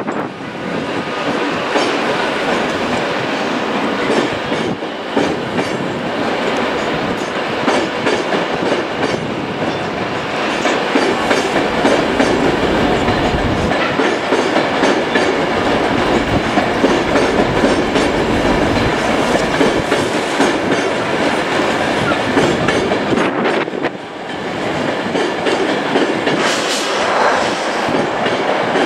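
A train passing close by, its wheels clicking over the rail joints in a steady clatter, with a short lull about three-quarters of the way through.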